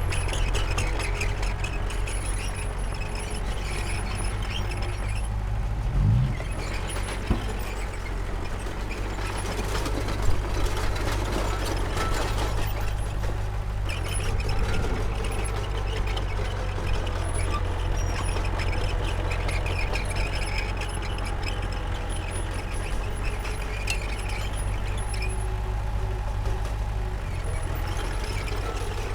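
Heavy diesel construction machinery running steadily under load while working soil, with a short rising sound about six seconds in and a sharp knock about ten seconds in.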